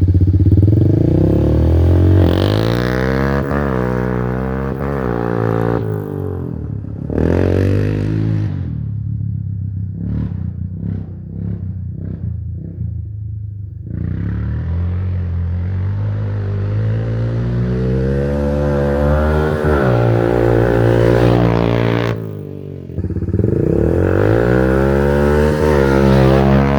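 Honda Fourtrax 300 ATV's single-cylinder four-stroke engine running through a cheap aftermarket muffler, revving up and down again and again. It drops to a quieter, lower running for several seconds in the middle before revving again.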